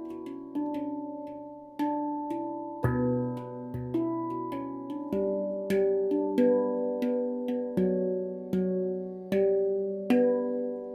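Stainless-steel Baopan handpan tuned to B Ursa Minor, struck by hand in a melody of single ringing notes that overlap as each one sustains. The last note comes about ten seconds in and is left to ring out.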